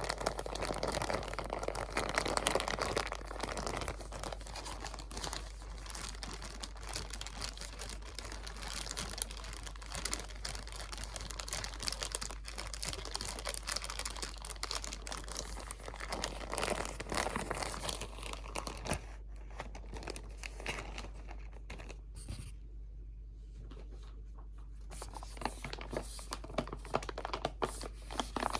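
Close-up crinkling and crackling of crinkly material being handled and crumpled, a dense run of small sharp crackles that thins out for a few seconds about two-thirds of the way through before picking up again.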